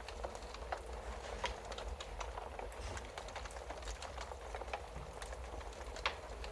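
Wood fire burning in a fireplace, crackling steadily with irregular small pops over a soft hiss and low rumble, and one sharper pop about six seconds in.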